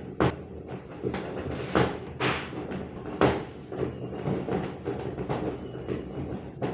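Objects being handled: a string of knocks and clicks with a couple of louder scrapes, over a steady low hum.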